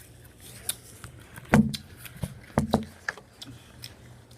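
A few sharp knocks and clicks of things being handled, the loudest two thumps about a second apart.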